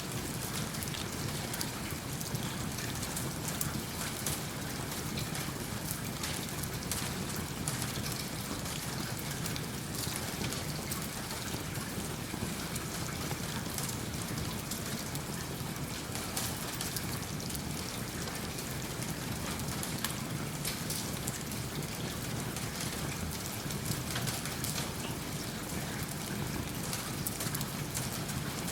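Steady rain falling, with fine crackles from a wood fire in a fireplace mixed in.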